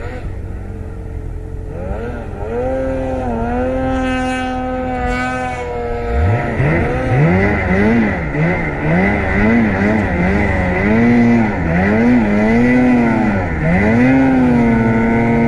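Snowmobile engines revving. About two seconds in, one engine's pitch climbs and holds for a few seconds. From about six seconds in, a sled's engine revs up and down over and over.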